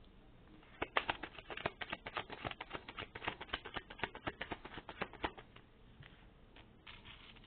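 A rapid, irregular run of light, sharp clicks and taps for about four and a half seconds, followed by a short rustle near the end.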